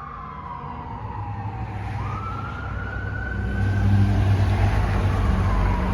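Fire truck siren wailing, its pitch sliding down and then climbing again about two seconds in, over the low rumble of the truck's engine. It grows steadily louder as the apparatus approaches.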